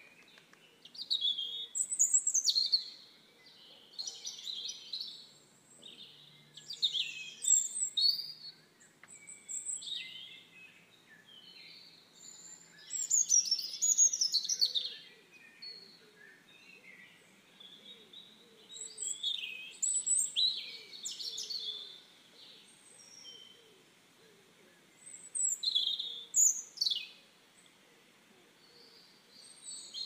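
Songbirds singing: quick chirping and trilling phrases, louder every few seconds, with quieter chirps between.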